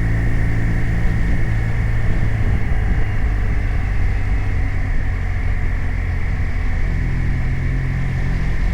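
BMW R 1250 RT's boxer twin engine running steadily on the move, under a constant hiss of wind and road noise.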